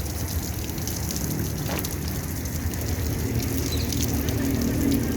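Running water splashing steadily, a continuous crackling rush over a low rumble. A faint held tone rises up near the end.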